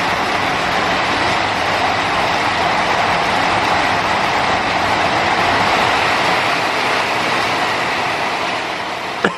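Heavy rain pouring down, a dense steady hiss that cuts off suddenly near the end.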